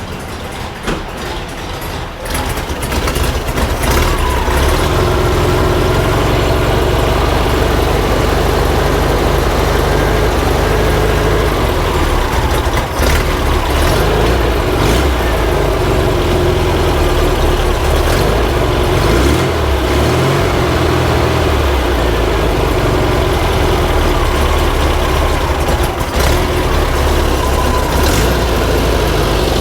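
Air-cooled flat-four engine of a 1950s VW Bus running, getting louder about three seconds in and then running steadily, while its idle is adjusted a quarter turn at a time after a rebuild.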